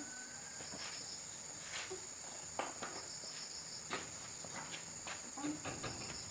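Steady, high-pitched chorus of insects such as crickets, with scattered light clicks and knocks.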